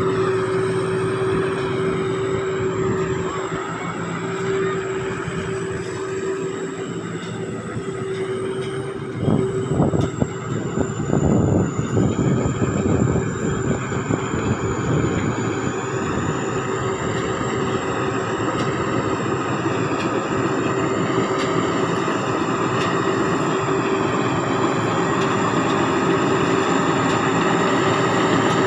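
Sakphatthana SS-300 combine harvester's diesel engine running steadily under harvesting load, with a high, shrill turbocharger whistle held over the engine's hum. A few louder surges come about ten seconds in.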